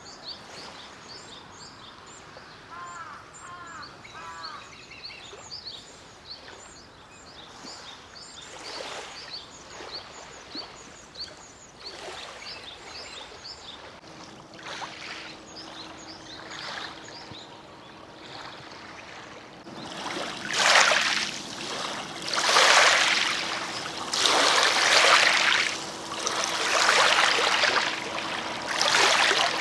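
Small waves washing onto a lake shore, one swell about every two seconds, loud from about two-thirds of the way through. Small birds chirp repeatedly before that, and a faint steady hum runs through the second half.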